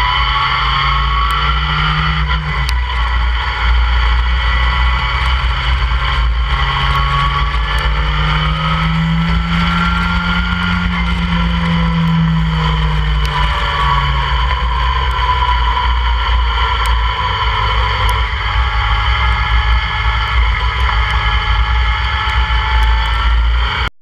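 Open-cockpit track car's engine running hard at speed, heard onboard with heavy wind buffeting on the microphone. The engine note climbs under acceleration and drops back at gear changes and lifts, several times.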